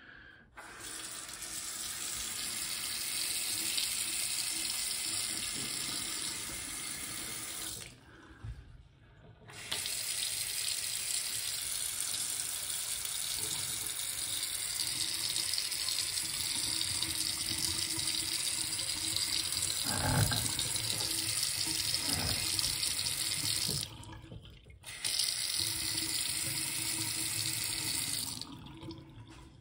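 Bathroom vanity faucet running steadily into the sink. It is shut off twice for a second or so and turned back on, and there is a single knock about two-thirds of the way through.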